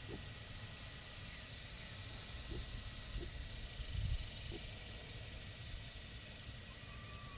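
A few short, faint pig grunts over a steady low rumble, with a louder low thump about four seconds in.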